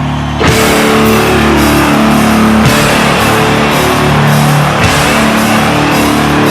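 Loud heavy-metal style rock music with distorted electric guitar, with chords changing every two seconds or so; it gets louder about half a second in.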